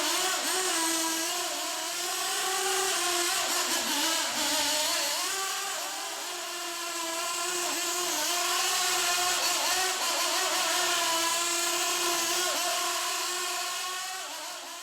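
Miniature SH-1/8 gasoline engine running during break-in, its speed wavering, sagging a little midway and picking up again, before fading out at the very end.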